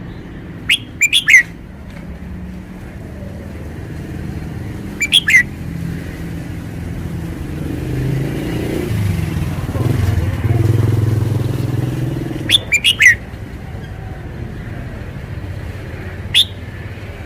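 Red-whiskered bulbul singing short, sharp phrases in four bursts: about a second in, around five seconds, around thirteen seconds and once near the end. Beneath them a passing vehicle's engine rumbles, swelling to its loudest around ten seconds in and then fading.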